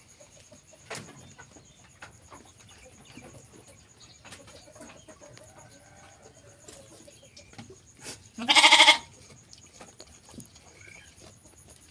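A sheep bleats once, a loud call of just under a second, about eight seconds in. Faint scattered clicks and rustles fill the rest, under a faint steady high-pitched tone.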